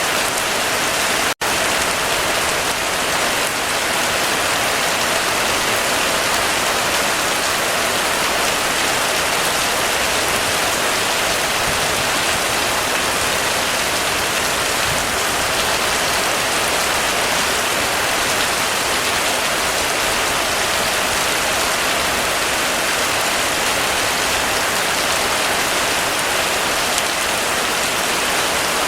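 Heavy, steady rain falling. There is an instant's break in the sound about a second in.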